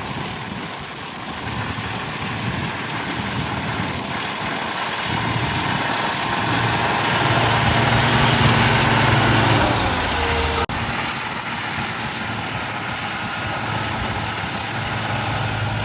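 Motor grader's diesel engine running under load as it works loose soil, getting louder in the middle and dropping sharply about eleven seconds in, then running on steadily.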